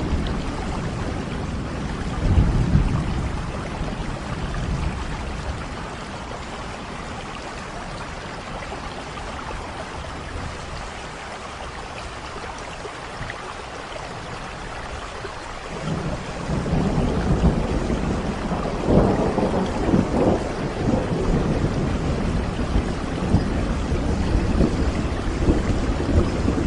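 Steady rain falling, with low rolling rumbles of thunder: one about two seconds in, then a longer, louder rumble building from a little past halfway, after a quieter stretch of rain alone.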